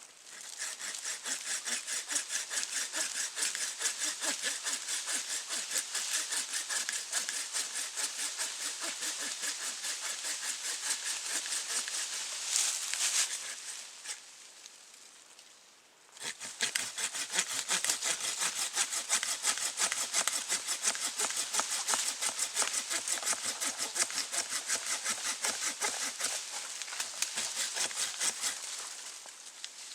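Hand saw cutting through wood with quick, even back-and-forth strokes. The sawing stops for about two seconds midway, then starts again at the same pace.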